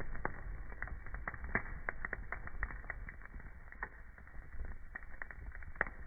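Wood fire in a fireplace crackling: irregular sharp pops and snaps over a low steady rumble, dull-sounding with no treble. One louder pop comes about a second and a half in and another near the end.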